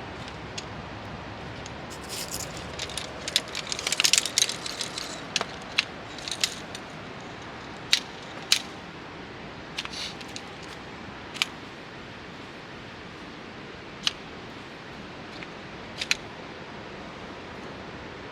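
Clinks and clicks of metal camping gear being handled while pitching a tarp: a busy run of rattling clicks about two to five seconds in, then single sharp clicks every second or two.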